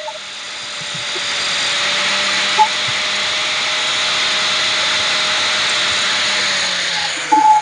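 Electric power tool working on the steel pole, running steadily with a loud rushing hiss, then winding down shortly before the end.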